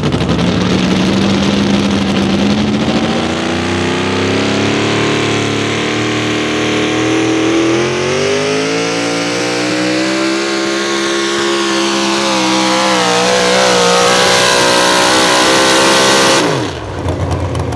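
Naturally aspirated 650-cubic-inch wedge-head engine of a National Sportsman 4x4 pulling truck running hard under load down the track, its pitch climbing steadily for about ten seconds, then holding with small wavers. Near the end the engine note falls away sharply.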